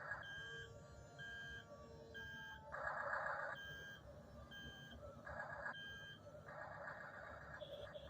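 Toy RC track-type tractor's electric drive motors and gearboxes whirring in short spurts, with an electronic warning beep repeating about once a second.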